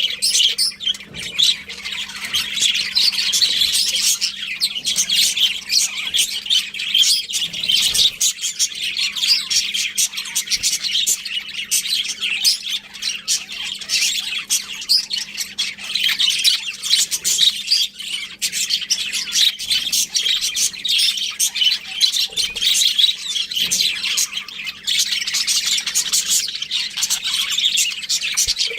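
Several budgerigars chirping and chattering at once: a dense, constant stream of quick high chirps and squawks.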